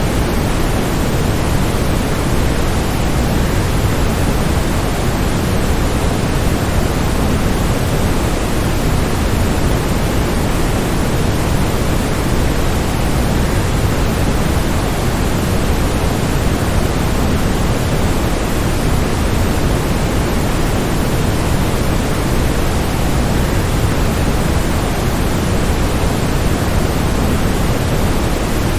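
Waterfall: falling water making a steady, even rush, heavier in the low end, with no breaks or changes.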